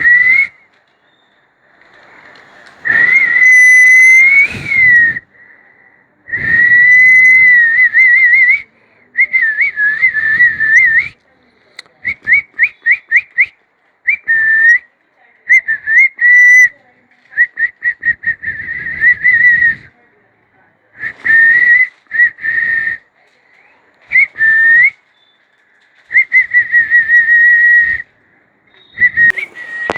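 Whistling: a string of loud whistled phrases at one high pitch, some held with a warble, others quick runs of short rising notes, separated by short pauses.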